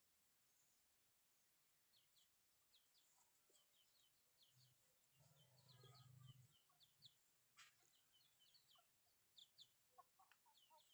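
Chickens, faint: many short high-pitched peeps follow one another, with a brief low hum about halfway through.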